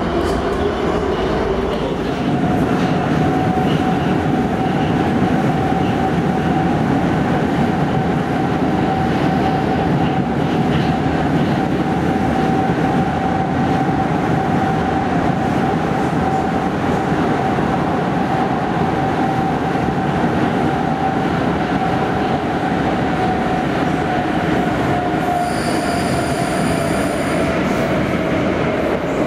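Prague metro train running between stations, heard from inside the car: a steady rumble of the wheels on the track under a motor whine. The whine rises in pitch over the first couple of seconds as the train picks up speed, holds, then drops slightly near the end as it begins to slow. A brief high-pitched squeal sounds a few seconds before the end.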